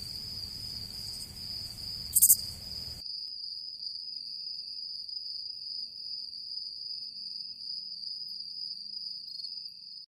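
Insect night ambience: a steady, unbroken high cricket trill, with a brief louder high buzz about two seconds in. The background hiss drops away about three seconds in while the trill carries on.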